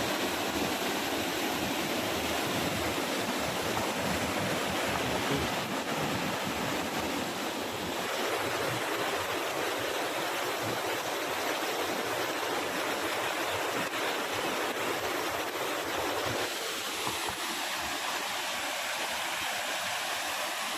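Stream water babbling and rushing, a steady unbroken rush.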